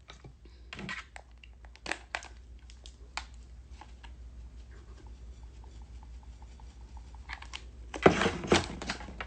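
Light scattered clicks and taps of a seasoning container and utensils being handled, while Old Bay is put on sliced mango. A louder rustling, shaking burst comes about eight seconds in.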